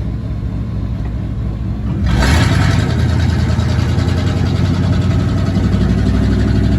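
Pickup truck engine running through a loud exhaust with a low, steady note, turning louder and fuller about two seconds in as it is given throttle, then holding there.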